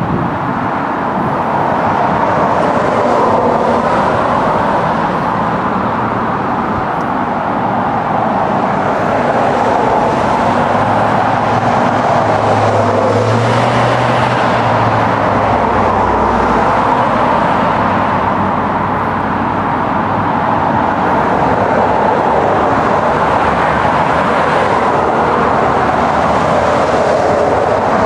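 Steady rolling rumble of a moving train.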